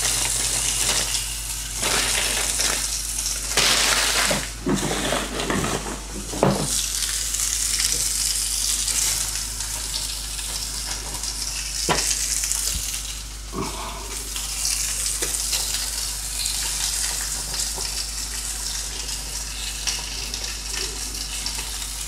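Food sizzling steadily in a pan on high heat, with stirring and a few knocks of a utensil against the pan, mostly in the first seven seconds.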